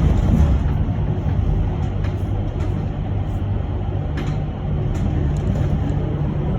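Cabin noise of a moving electric bus: a steady low rumble of tyres and road, with a few faint rattles.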